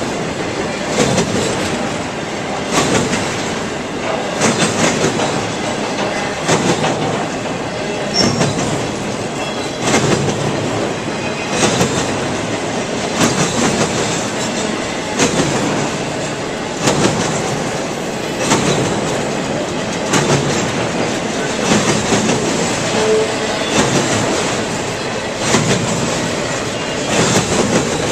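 Railroad cars rolling past with a steady rumble of steel wheels on rail. The wheels clack over rail joints in clusters of sharp beats, repeating about every two seconds.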